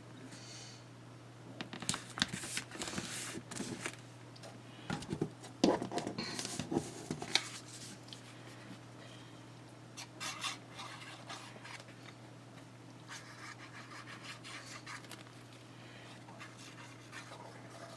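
Handling noises of paper crafting: paper being rubbed, scratched and pressed down, with a few small knocks, in irregular bursts over a steady low hum.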